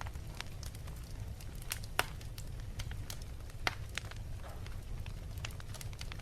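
Wood fire crackling in a fireplace: a steady low rumble with scattered snaps and pops, two sharper pops about two and three and a half seconds in.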